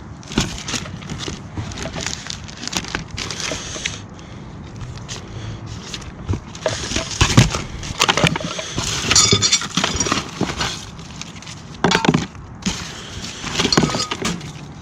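Hard household objects being handled and sorted through, knocking and clattering irregularly, with a ringing clink about nine seconds in.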